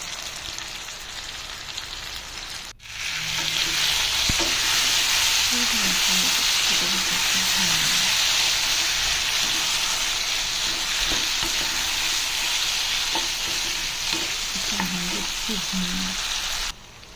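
Chicken masala with freshly added coriander and cumin powder sizzling in hot oil while being stirred in the pan: a steady frying hiss. It drops out briefly about three seconds in, comes back louder, and cuts off suddenly just before the end.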